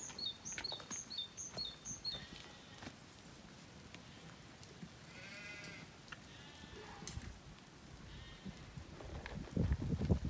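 Zwartbles sheep bleating several times, the clearest bleat about halfway through. A bird's quick run of high chirps opens it, and a few low thumps come near the end.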